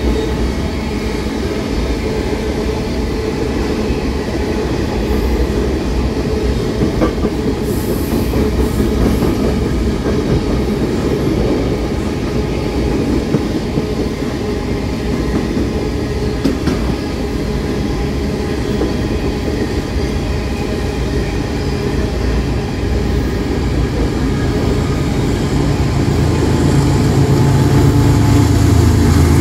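Railway cars rolling past on the track, a steady rumble with wheel clatter, growing louder and deeper over the last few seconds.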